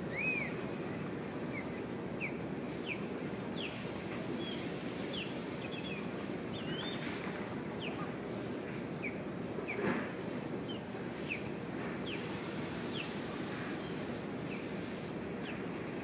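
Birds giving short, high chirping calls, one every half second to a second, over a steady low background hiss. About ten seconds in there is one brief, louder sound.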